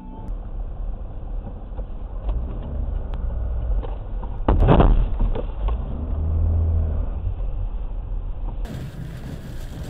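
Car driving, heard through a dashcam: steady engine and road rumble, with one loud thump about four and a half seconds in, typical of a collision. The sound turns hissier near the end.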